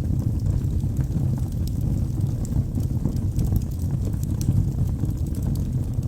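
Wood fire burning in a fireplace: a steady low rumble of flames with frequent small crackles and snaps from the burning logs.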